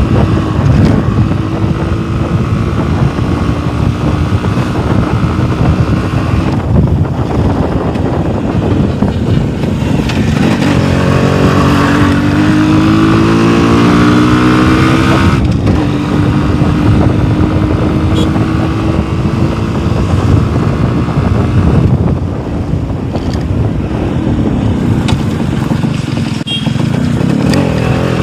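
Yamaha RX 135's 132cc air-cooled two-stroke engine being ridden hard, its note climbing in pitch through each gear and dipping briefly at about three gear changes.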